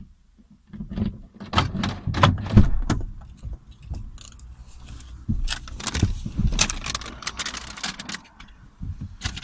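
A run of irregular knocks, clicks and rattles from things being handled close by, with jingling like keys; the loudest knock comes about two and a half seconds in.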